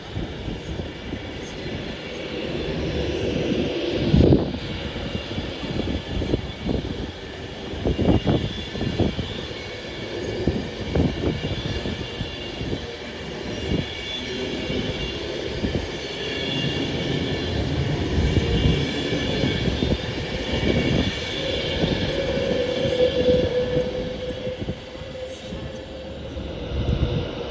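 Train running through on the main line: a steady rumble broken by many short thumps of wheels over the track, with a higher whine over it. A steady hum comes in about two-thirds of the way through.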